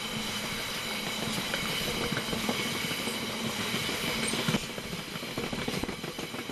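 Train passing at speed, its wheels clattering over the rail joints. The steady rushing noise drops suddenly about four and a half seconds in, leaving the clicking of the wheels.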